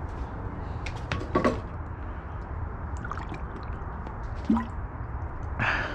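Scattered clicks and clinks of parts and tools being handled, a few of them louder about a second in and again around four and a half seconds, over a steady low hum.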